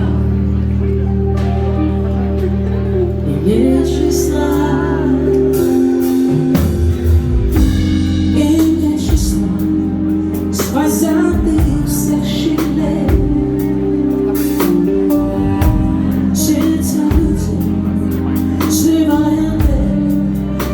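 Live band music: a woman singing over held keyboard and bass chords, with drums coming in about six seconds in.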